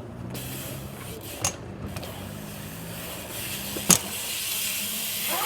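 Dirt jump bike riding a line on skatepark concrete: tyres rolling, with two sharp knocks from the bike landing or striking the ramps, one about a second and a half in and a louder one just before four seconds.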